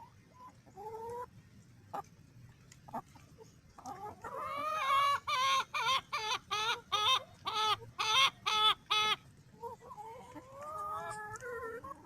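Chickens clucking, with a loud run of about a dozen rapid repeated calls from about four seconds in to about nine seconds, then softer calls near the end.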